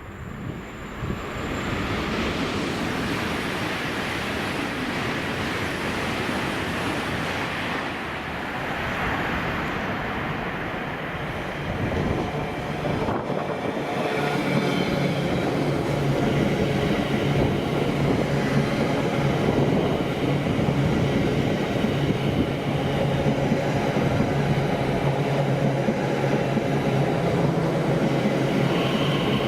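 A train running through the station without stopping. Its running noise builds within the first couple of seconds, gets louder about twelve seconds in, and a steady low hum joins it from about fifteen seconds on.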